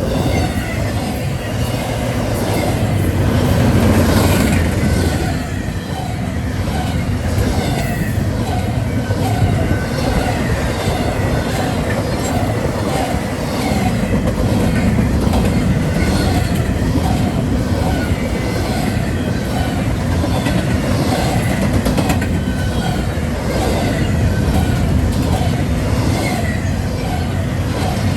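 Train rolling past close by, its wheels clicking over the rail joints in a steady repeating rhythm.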